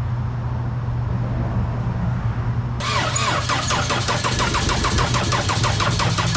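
Steady low hum for about three seconds, then a 2006 Toyota Corolla's four-cylinder engine being cranked over by the starter in a fast, even rhythm. The engine is turning over on a fresh quart of oil after running on Purple Power degreaser, which washed the oil from its bearings.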